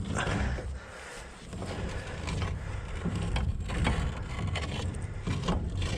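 Mooring chain being hauled aboard on the boat's winch: irregular knocks and clanks of the links over a low steady rumble.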